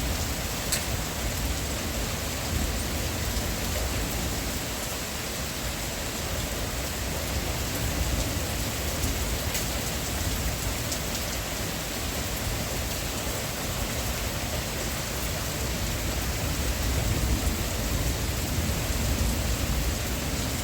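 A steady, even rushing noise with a low rumble under it and a few faint ticks.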